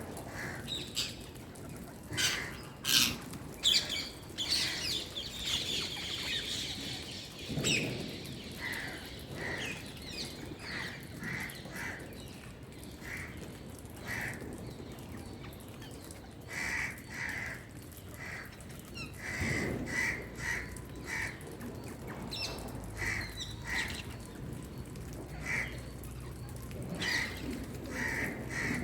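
Rose-ringed parakeet (Indian green parrot) giving short repeated chirps and squawks on and off. Several sharp firecracker bangs come about two to four seconds in and are the loudest sounds, followed by a few seconds of hissing.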